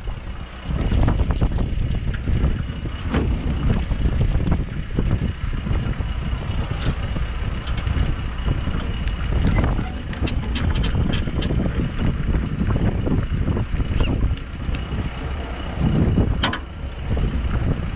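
Tractor running as it works along a track-ballast road, a steady low rumble with irregular knocks and rattles.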